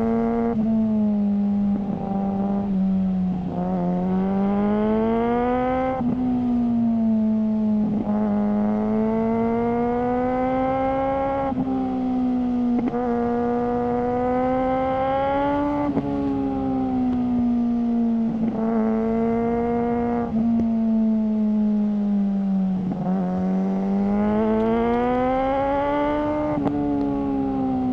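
Suzuki GSR600's inline-four engine through a GPR Ghost aftermarket exhaust under way. The revs climb and drop sharply at each upshift, three times. They then fall off slowly as it decelerates, before climbing again and dropping once more near the end.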